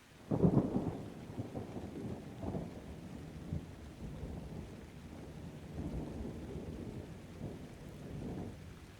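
Thunder: a sharp crack about a third of a second in, then a long rolling rumble with crackles that swells twice more and dies away near the end, over faint rain.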